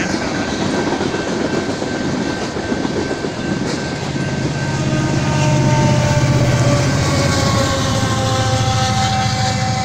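Coal train's open-top cars rolling past at speed, steel wheels running on the rails, loudest a little past the middle, easing off near the end as the last car clears.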